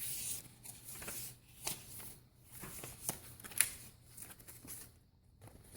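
Paper rustling as the pages, cards and tags of a handmade junk journal are turned and handled: a string of short rustles and light taps, quieter near the end.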